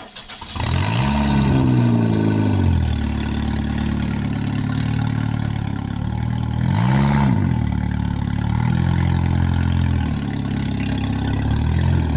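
Car engine starting up and revving: the pitch rises and falls, settles into a steady run, then rises and falls once more briefly about seven seconds in.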